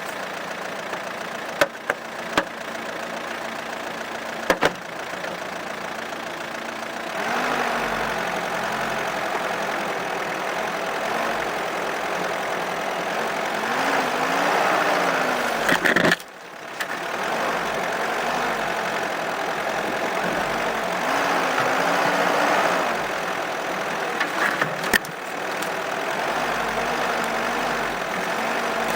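Opel Monterey SUV's engine running while driving, its pitch rising and falling with the throttle several times. A few sharp knocks come through, near the start, about halfway and near the end.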